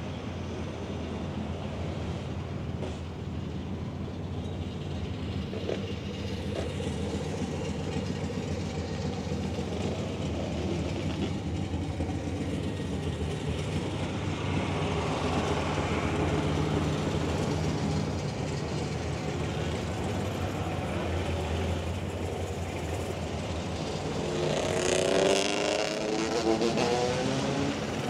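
A vehicle engine running steadily, with a brief rising rev about 25 seconds in.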